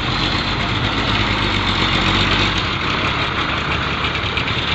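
Diesel engine of a Fuso dump truck running steadily and loudly, with a deep, even engine note and a broad rushing noise over it.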